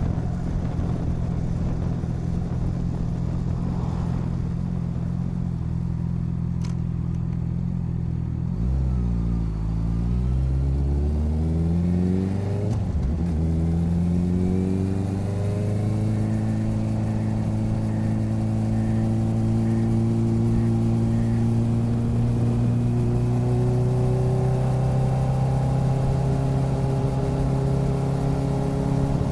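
Motorcycle engine running steadily, then accelerating with rising revs, shifting up a gear about 13 seconds in, revving up again and settling into a steady cruise.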